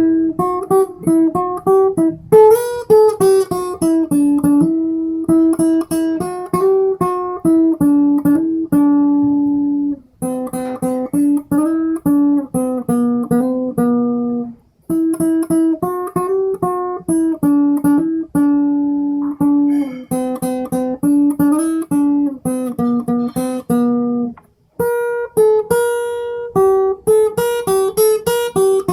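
Acoustic guitar playing a melody in quick single plucked notes, with a few chords strummed, breaking off briefly about ten seconds, fifteen seconds and twenty-five seconds in.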